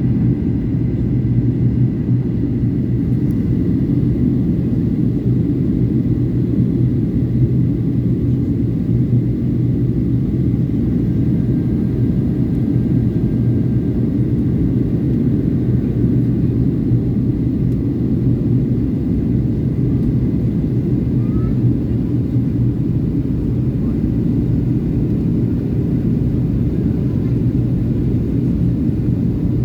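Steady low drone of an airliner's engines and airflow heard from inside the passenger cabin in flight, with a constant hum beneath it.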